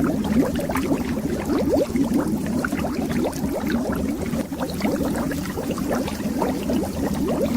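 Bubbles rising underwater in a steady, dense stream, heard as many short, quick-rising bubbling blips.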